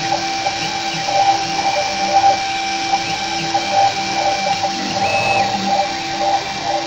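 CNC PCB engraving machine running: a steady motor whine made of several held tones, with short shifts in tone as the machine moves. A brief higher tone sounds about five seconds in.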